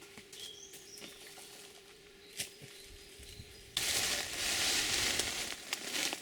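Quiet forest with a few small clicks, then about four seconds in a sudden, loud, steady rustling and crackling, like dry leaves and undergrowth being pushed through or handled close to the microphone.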